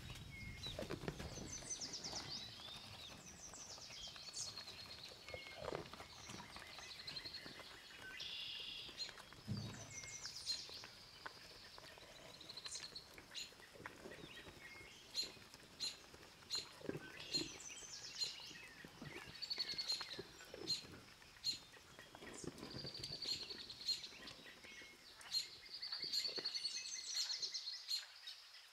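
Meadow ambience of small songbirds chirping and trilling, many short calls overlapping, with a few soft low rustles.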